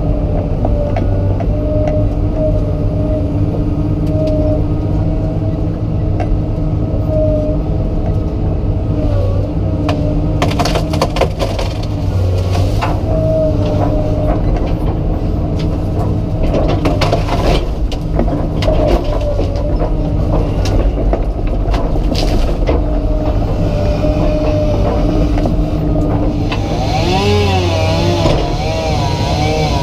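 Komatsu PC200 excavator's diesel engine running steadily under load, with stretches of sharp cracks and knocks in the middle as the trees are worked. Near the end a chainsaw comes in, revving up and down several times.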